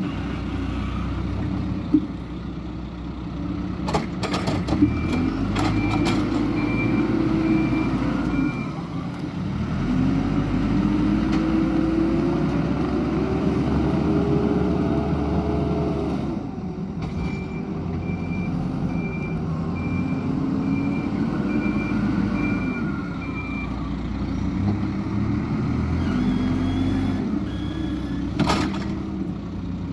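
Hidromek 102S backhoe loader's diesel engine revving up and down in long swells as it works under load, with its reversing alarm beeping in two spells and a few sharp knocks.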